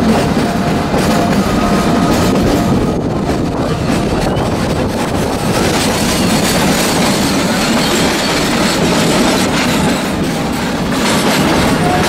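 Passenger train coaches running on the rails, heard from an open coach doorway: a steady loud rumble of wheels on track. From about halfway through, with the train inside a tunnel, the noise turns sharper and hissier.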